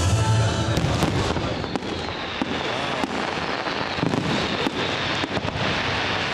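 Fireworks display: rapid bangs of firework shells bursting over a dense, continuous crackling.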